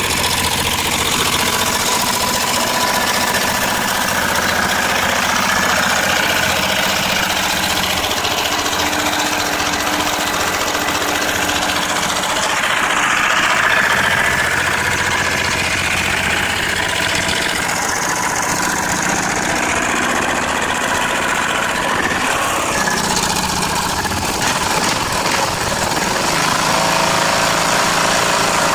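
Briggs & Stratton 14.5 hp engine running steadily, its speed shifting a few times.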